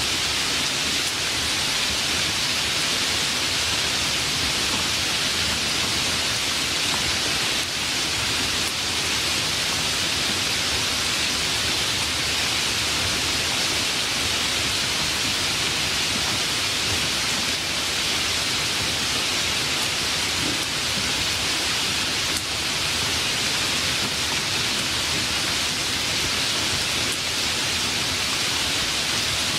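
Steady heavy rain, an even hiss without distinct drops or breaks.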